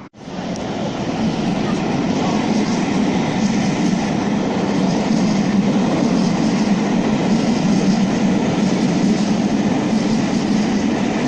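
Train passing at close range: a steady, loud rumble of wheels on the track that swells over the first second and then holds.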